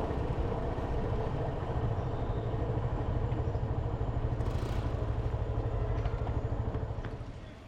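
Motorcycle engine running with a steady, rapid low pulsing beat. It gets quieter near the end.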